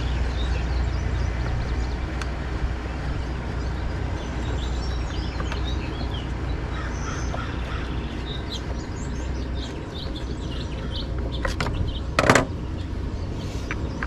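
Small birds chirping over a steady low rumble, with one short, loud scraping noise near the end.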